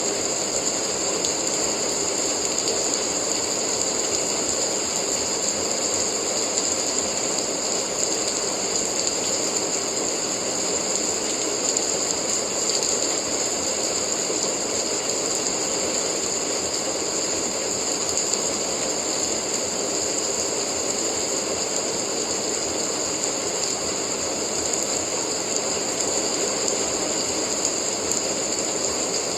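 Steady rain: a dense, even hiss of falling drops that keeps the same level throughout.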